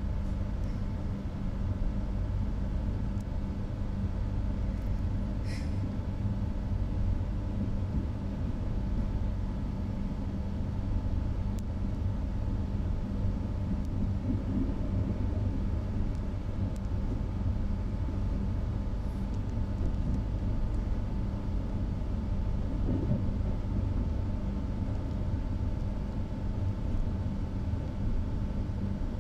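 Trenord TAF double-deck electric train running at speed, heard from inside the passenger car: a steady low rumble of wheels on track with a constant hum. A brief high-pitched squeak about five and a half seconds in.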